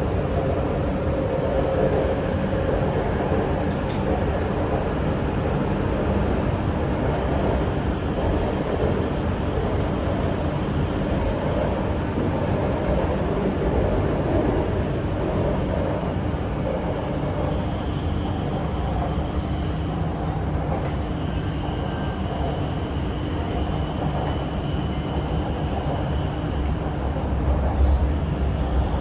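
Chengdu Metro Line 7 A-type train running between stations, heard inside the car: a steady rumble of wheels on rail with running noise. A thin higher whine comes in about two-thirds of the way through, and the low rumble swells near the end.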